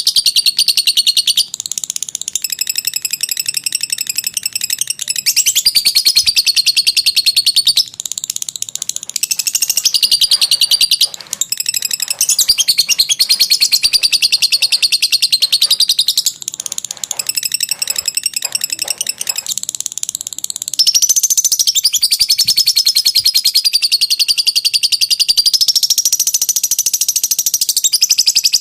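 Lovebird's long 'ngekek' chatter: a rapid, high-pitched trill that runs for several seconds at a stretch, with only a few short breaks.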